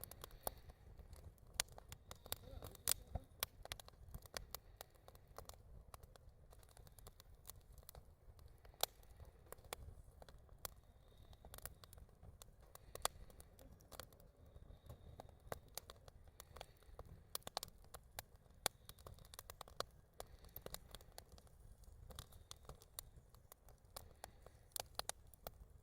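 Wood campfire crackling, with frequent irregular sharp pops and snaps over a low, steady rumble.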